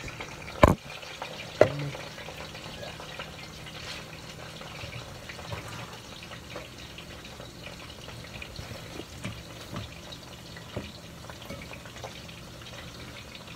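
Green banana slices frying in hot oil: a steady sizzle with scattered small pops. Two sharp knocks sound near the start, about a second apart.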